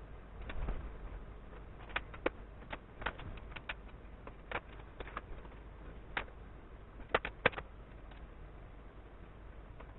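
Scattered light clicks and taps of hand work, irregular, with a quick run of three sharper ones about seven seconds in, over a low steady hum.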